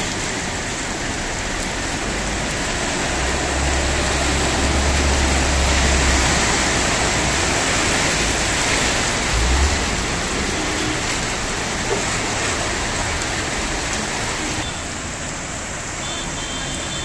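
Steady hiss of heavy rain and moving water on a flooded street. Midway a car ploughs through the floodwater, throwing up a wave, with a low rumble. The hiss thins a little near the end.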